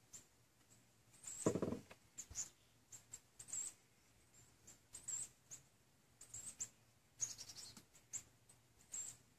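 Small birds chirping faintly: short, high chirps repeating irregularly, with a quick run of chirps about seven seconds in. A brief, lower sound about a second and a half in is the loudest moment.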